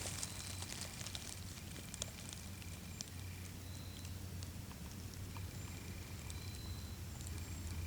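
Quiet woodland background: a low steady hum with a few faint clicks, sharpest about two and three seconds in, and brief faint high tones now and then.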